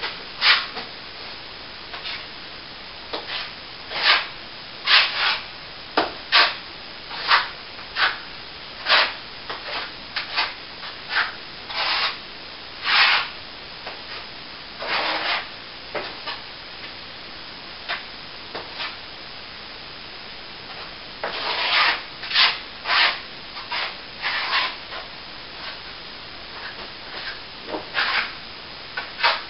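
Short scraping and rubbing strokes of a hand tool on a plaster wall, roughly one a second and irregular, with a pause of a few seconds midway.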